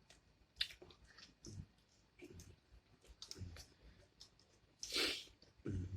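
Quiet chewing and wet mouth clicks of someone eating chicken and fries, with a short louder hiss of breath about five seconds in.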